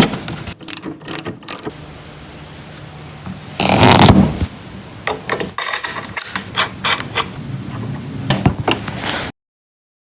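Irregular clicks and rattles of small mechanical parts being worked, over a faint steady hum, with a louder scraping burst about four seconds in. The sound cuts off suddenly near the end.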